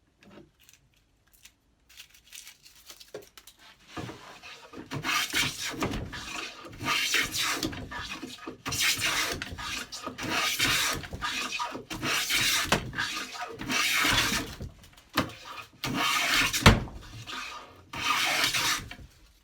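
Record No. 5 bench plane shaving a board in a series of long strokes, roughly one every one and a half to two seconds, with the blade backed out for a thinner cut. The strokes begin about four seconds in, after a few faint handling sounds.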